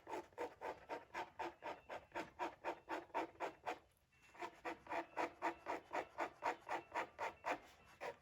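Scalpel blade scraping old glue off the suede-like parchment of a Torah scroll in quick, even strokes, about four a second, with a short break about halfway through.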